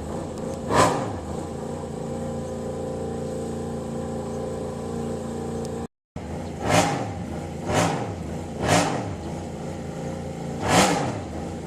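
Yamaha YZR-M1 MotoGP racing motorcycle's crossplane inline-four engine idling, with sharp throttle blips that rise and fall quickly: one about a second in, then four more in the second half. The sound cuts out briefly near the middle.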